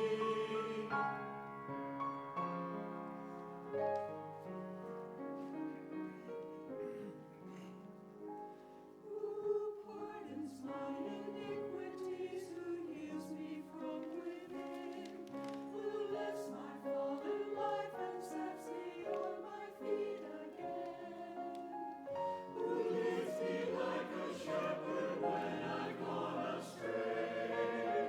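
Church choir singing with musical accompaniment, long held notes; the sound swells fuller and louder near the end.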